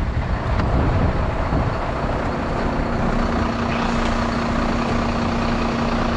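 Large truck's diesel engine running, with a steady low drone that grows stronger about halfway through.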